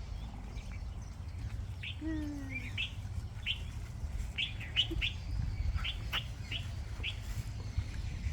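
Small birds chirping: a run of short, sharp, high chirps, with one lower falling call about two seconds in, over a steady low rumble.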